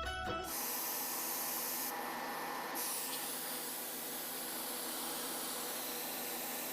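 Music cuts off about half a second in, giving way to a steady hiss.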